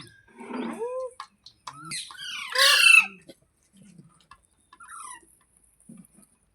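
Pet green ringneck parrot calling: a short rising call early on, then a loud harsh squawk about two seconds in, and a short falling call about five seconds in.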